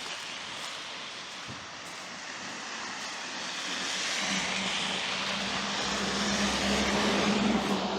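A passing engine, growing louder over several seconds with a steady hum under a rushing noise, then falling away quickly near the end.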